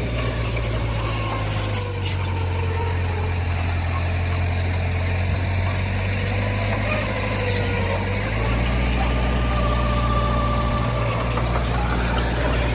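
Heavy diesel machinery engine running steadily, its note dropping about two seconds in and picking back up about eight seconds in, with a faint wavering whine above it.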